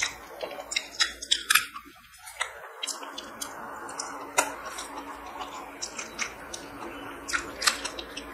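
Close-up eating sounds of a person eating rice and boiled okra by hand: chewing with sharp, wet mouth clicks and smacks coming irregularly, several in quick succession at times.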